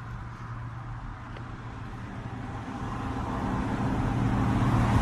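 A motor vehicle approaching, its steady engine hum and road noise growing louder through the second half.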